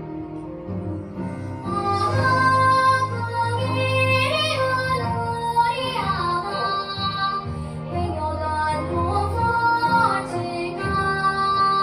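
A child singing a children's song in Jeju dialect over instrumental accompaniment; the voice comes in about two seconds in after a short instrumental passage.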